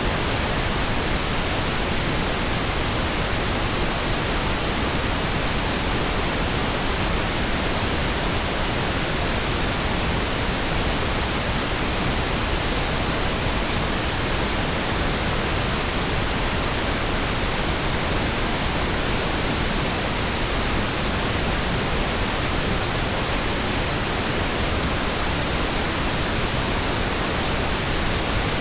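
Steady synthetic pink noise: an even, unchanging hiss across the whole range from low rumble to high treble.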